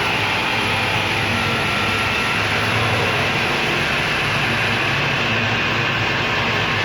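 Metal lathe running steadily, a continuous machine drone with a low hum, as it turns a pin that is still short of its finished size.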